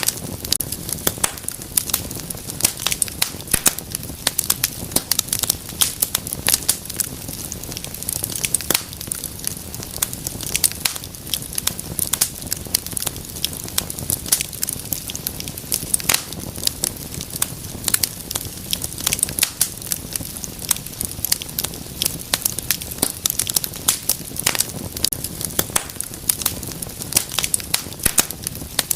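Wood fire burning in a fireplace, with dense sharp crackles and pops over a soft low rumble of flame.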